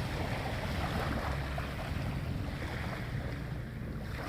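Sea waves washing on the shore, mixed with wind buffeting a phone's microphone: a steady rushing noise with a low rumble underneath.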